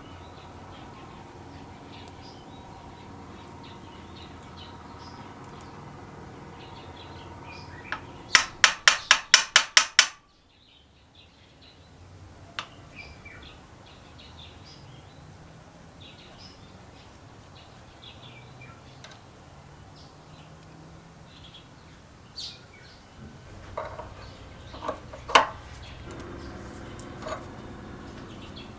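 Sharp clicks and taps of hand tools and small metal parts being worked. A quick run of about nine loud clicks, around five a second, comes near the middle, then scattered single clicks and taps, more often near the end.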